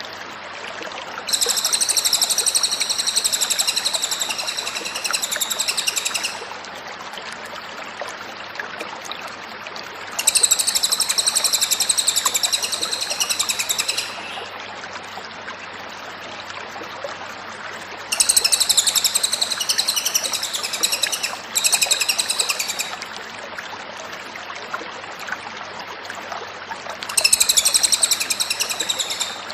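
Cililin bird singing in four bursts of rapid, high trilling song, each a few seconds long, over a steady hiss.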